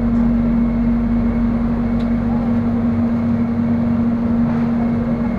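Soekarno-Hatta airport rail link electric train running, heard from inside the carriage: steady running noise with a strong steady low hum.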